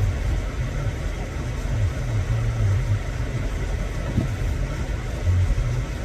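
Off-road 4x4's engine running at low revs, a steady low rumble.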